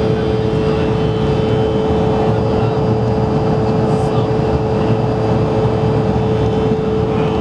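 Steady cabin noise inside an Embraer ERJ-170 airliner under power: the rush of engines and airflow, with a constant hum riding on it.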